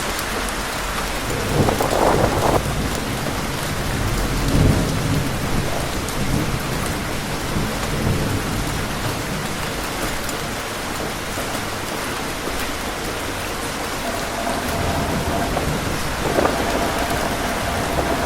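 Heavy rain pouring steadily, with gusts of wind swelling up about two seconds in and again near the end, and low rumbles in between.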